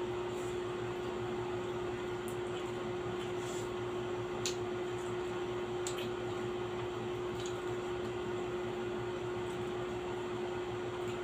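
A steady machine hum with one constant tone, like a running fan or appliance, with a few faint sharp clicks in the middle.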